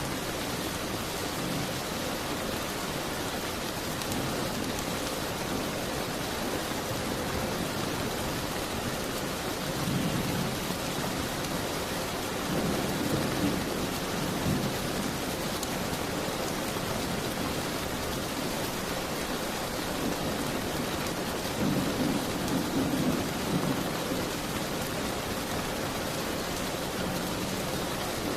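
Steady rain beating on a window, with a low rumble swelling up three times, about ten, thirteen and twenty-two seconds in.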